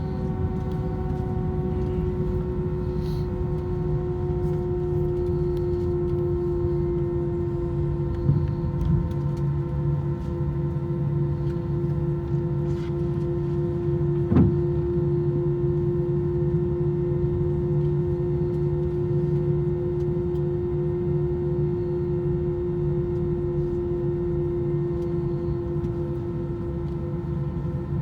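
Airbus A321-200 wheel brakes giving a steady ringing moan with overtones, dropping slightly in pitch, over the aircraft's low rumble; one sharp knock about 14 seconds in.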